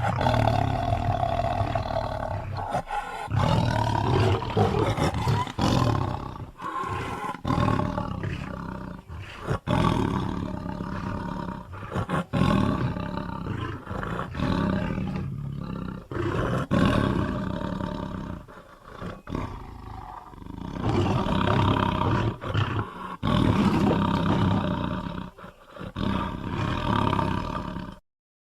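A long run of monster roars and growls voiced for the Muppet character Sweetums, loud and drawn out with short breaks between them, cutting off abruptly near the end.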